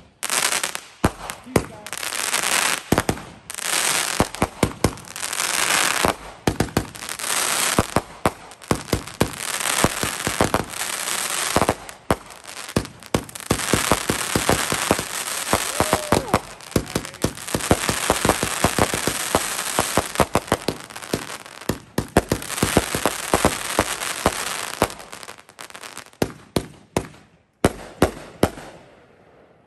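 Consumer firework cake firing: a rapid string of shots and bangs over dense crackling. For about the first dozen seconds it surges about once a second, then runs as a long continuous crackle, and it thins to scattered pops near the end.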